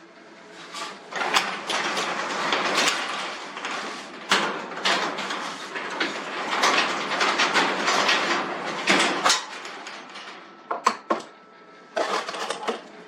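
Metal garage door hardware being worked by hand while a roller is swapped: scraping and rattling, then a few sharp knocks near the end.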